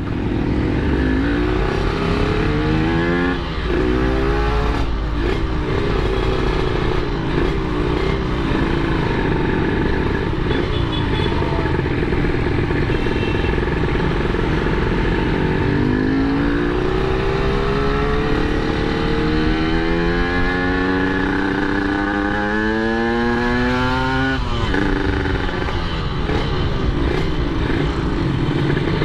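Yamaha RX-King 135cc two-stroke single-cylinder motorcycle engine ridden under acceleration. Its revs climb again and again through the gears, with the longest climb about two-thirds of the way in, cut short by a sudden drop at a gear change.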